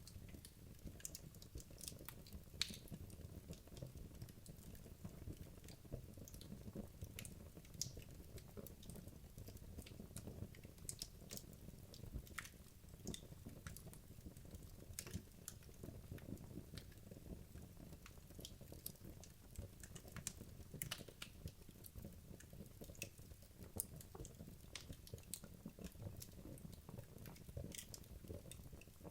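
Wood logs burning in a fireplace: frequent small crackles and pops at irregular intervals over a low, steady rumble.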